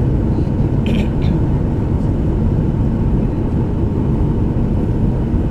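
Steady low rumble of a Boeing 737-800's CFM56-7B jet engines, with a brief faint high sound about a second in.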